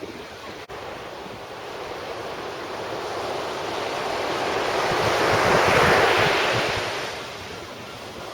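Sea surf: a wave washing up the beach, its rush swelling to a peak about six seconds in and then falling away, with some wind on the microphone.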